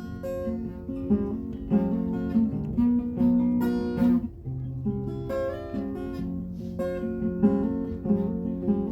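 Acoustic guitar strumming chords as background music, an instrumental break with no singing.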